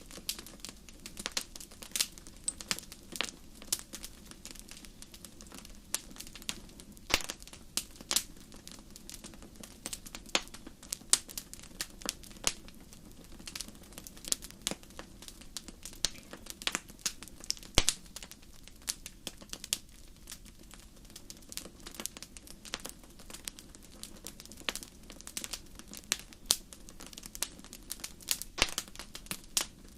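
Wood fire crackling in a fireplace: irregular sharp pops and snaps, several a second, over a low steady rush of the burning fire. The loudest snaps come about 7 and 18 seconds in.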